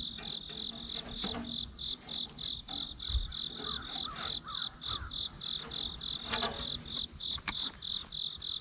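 Insects chirping in an even rhythm of about five high chirps a second, over a steady high hiss of other insects. A few faint knocks come through now and then.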